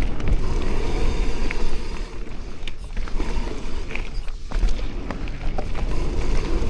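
Mountain bike riding down a dirt trail: wind rushing over the microphone with the hum of tyres on dirt, and scattered clicks and clatters from the chain and frame. It eases a little about two seconds in.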